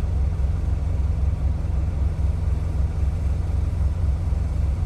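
Semi-truck diesel engine idling: a steady low rumble with an even pulse.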